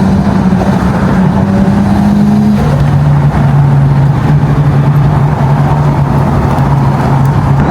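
Nissan Skyline straight-six engine running under steady load at constant revs. About two and a half seconds in, its pitch drops to a lower steady drone, as with a gear change or easing off.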